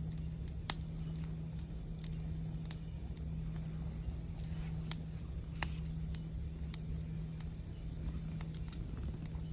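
Campfire crackling, with a few sharp pops scattered through, over the low steady hum of a singing bowl still ringing from an earlier strike.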